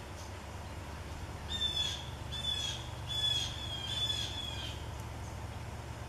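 A bird calling four times in quick succession, each call short and sliding slightly down in pitch.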